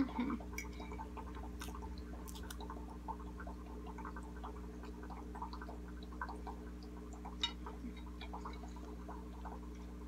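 Soft closed-mouth chewing of a mouthful of frosted chocolate cake: faint scattered mouth clicks and smacks, over a steady low hum.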